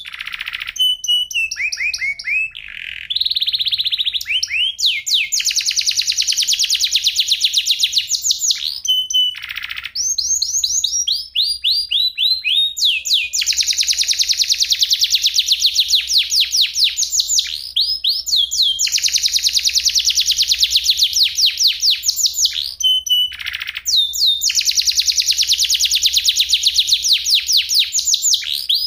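Domestic canary singing a long, fast rolling song: rapid trills of repeated high notes, some phrases sliding down in pitch, each run lasting several seconds with short breaks between.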